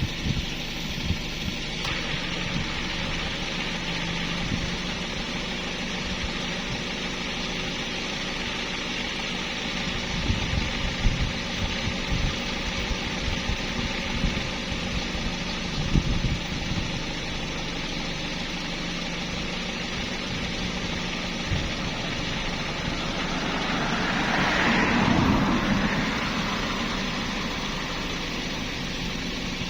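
A motor running steadily at idle, with scattered low knocks through the middle and a swell of louder noise that rises and falls near the end.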